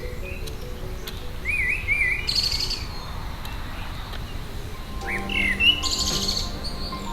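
Small garden songbird singing: a few quick wavering whistled notes and then a buzzy trill, heard twice. Soft background music comes in near the end.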